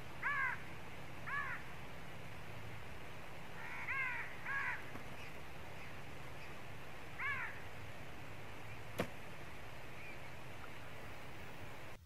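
A bird calling: five short calls that rise and fall in pitch, two of them close together about four seconds in, over a steady hiss. A single sharp click about nine seconds in.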